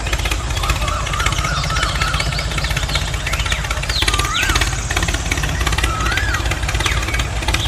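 Small engine of a homemade mini tractor running steadily with a fast, even chugging rhythm, with a few thin wavering chirps above it.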